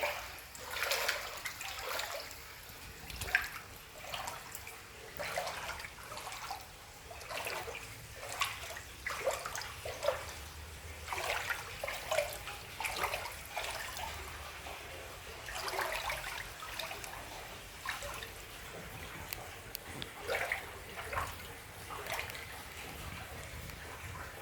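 Floodwater splashing and trickling, with irregular splashes and gurgles over a steady wash of moving water.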